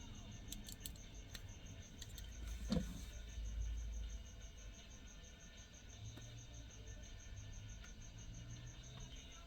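Faint, steady chirping of a cricket, a high pulse repeating about five times a second. A few light clicks and a soft knock about three seconds in come from a diecast model car being handled.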